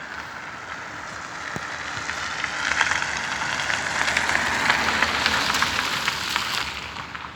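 A car passing on the road: tyre noise that swells about two and a half seconds in, peaks, and fades away near the end.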